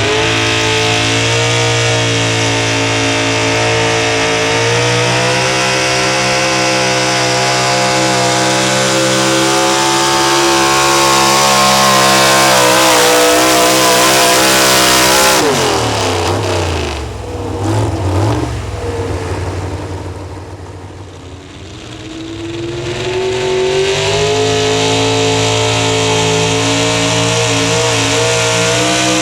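Pro stock four-wheel-drive pulling truck's engine at full throttle under the sled's load, its pitch climbing slowly. About halfway it is cut off and the revs fall fast, then a few seconds later an engine revs back up and holds high again.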